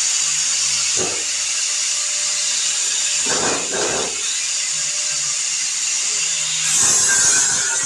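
Angle grinder running against sheet metal, a steady high hiss, grinding down weld spots on patch panels, with a few rougher, louder scrapes about a second in, around the middle, and near the end.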